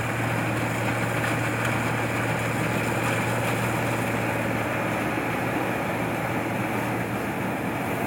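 Combine harvester's engine running steadily, with a constant low hum under an even mechanical noise.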